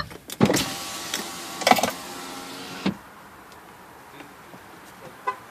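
A small electric motor in the car whirs steadily for about two and a half seconds, with clicks at the start, then cuts off suddenly.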